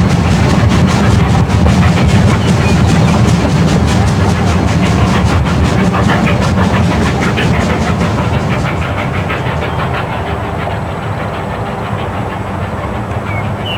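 Narrow-gauge steam locomotive working along the line, its exhaust chuffing in a quick, even beat, growing fainter over the last few seconds.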